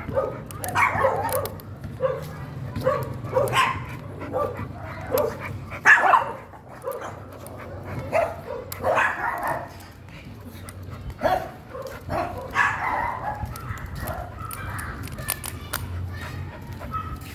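A dog barking over and over, short barks with brief gaps between them, over a low steady hum.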